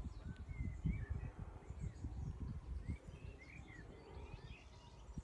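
Wind buffeting the microphone in irregular gusts, easing off toward the end, while small birds chirp in short rising and falling notes.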